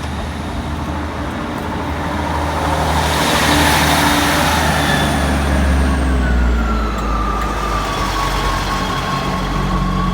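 Class 158 diesel multiple unit passing over the level crossing: a steady low engine hum with wheel and rail noise, loudest about four seconds in. A high whine slides down in pitch around six seconds in and then holds steady.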